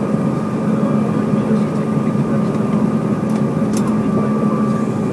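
Airliner engine noise: a steady, unbroken drone with a constant low hum and a fainter higher tone.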